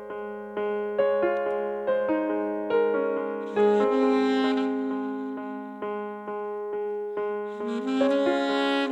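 Piano playing slow, sustained chords in a gentle worship-ballad intro, a new chord struck roughly every second and left to fade.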